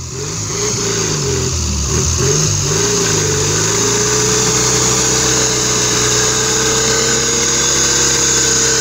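Engine of a Volkswagen Beetle off-road buggy driving through mud, revved up and down for the first few seconds, then held at steady, slowly climbing revs for the rest.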